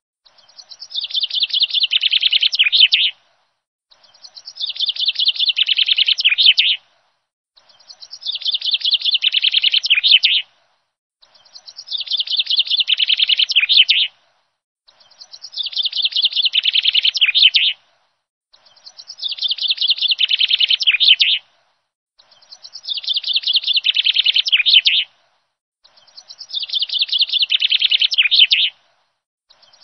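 Bird song of rapid high trilling chirps, the same phrase repeated about eight times at even spacing. Each phrase lasts about three seconds and grows louder, with dead silence between phrases, as in a looped recording.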